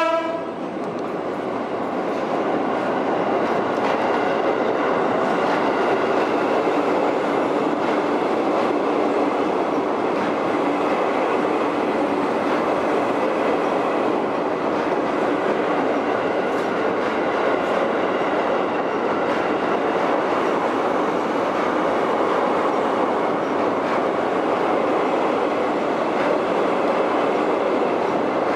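KRL electric commuter train passing close by on a steel truss bridge: a steady, loud rumble and rattle of wheels on rail. It starts with the tail of a horn blast, and a faint steady whine sits over the rumble for the first ten seconds or so.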